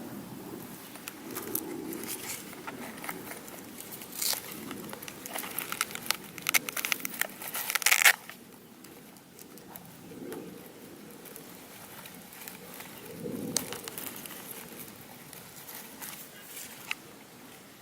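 Paper being handled and folded: crinkling and crackling with sharp creasing clicks, busiest and loudest from about four to eight seconds in, then quieter with scattered clicks.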